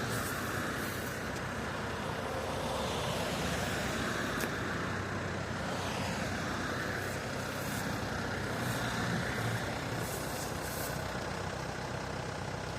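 Mercedes-Benz V-Class 220 CDI's four-cylinder diesel engine running steadily, with a higher sound that dips in pitch and rises again about halfway through.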